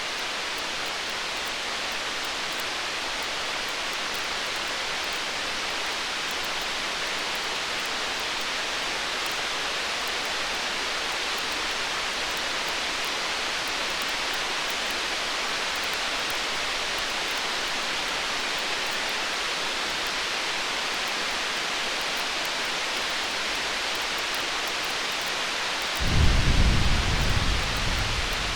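Steady rain-like hiss, then near the end a sudden low rumble of distant thunder that swells and slowly fades.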